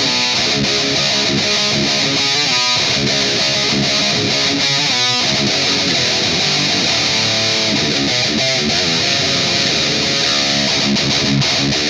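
Electric guitar played through an overdriven amp, riffing continuously, with two quick pitch slides about two and a half and five seconds in.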